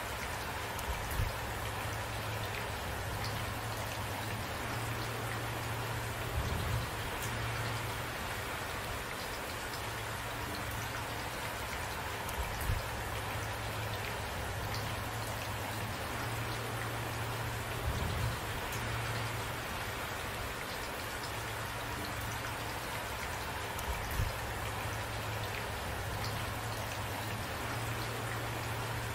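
Steady rain falling, with brief low thuds about every six seconds.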